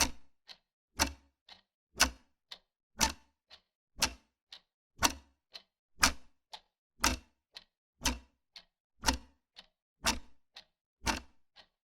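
Wall clock ticking steadily: a louder tick once a second with a softer tick about halfway between.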